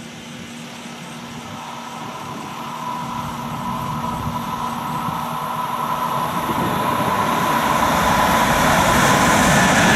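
Siemens ES 64 F4 (class 189) electric locomotive hauling a container freight train, approaching and growing steadily louder, with a steady whine and a building rumble of wheels on the rails.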